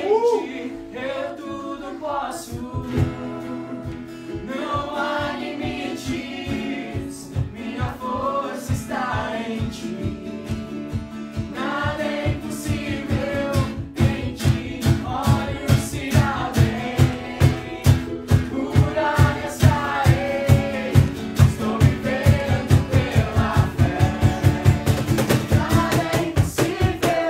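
Live worship song: voices singing over acoustic guitar and a steady beat. The music stops abruptly at the end.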